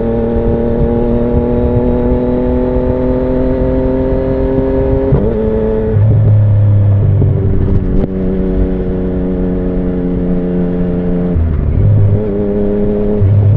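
2017 Yamaha MT-09's three-cylinder engine through an Akrapovic Racing Line carbon full exhaust, running under way with its note climbing slowly. The note breaks briefly about five, eight and eleven and a half seconds in.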